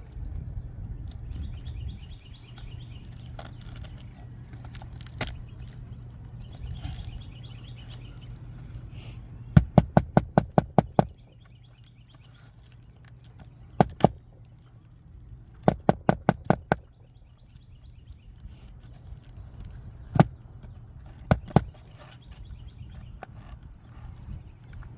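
Bursts of sharp, rapid knocks, like a hammer striking: a run of about eight quick blows near the middle, a single blow, then a run of about six, then two more single blows near the end. A steady low hum runs underneath throughout.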